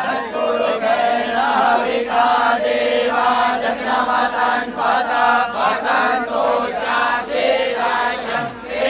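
A group of Vedic students chanting Sanskrit mantras in unison, in a steady run of short syllables.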